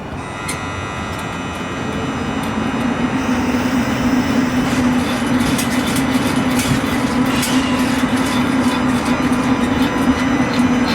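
High-speed TGV-type train running through the station: a steady rushing noise with a constant low hum. It grows louder over the first few seconds, then holds, with scattered sharp clicks from the wheels.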